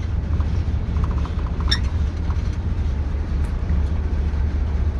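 TU6A narrow-gauge diesel locomotive's YaMZ-236 V6 diesel engine running steadily at low revs while warming up after a cold start, with a short run of faint light ticks about a second in.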